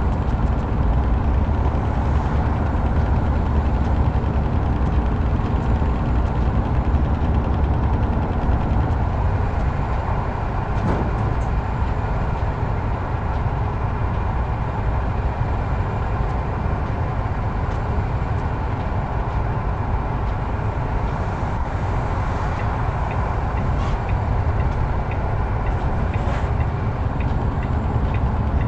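Heavy truck on the move: a steady, low engine drone and road rumble.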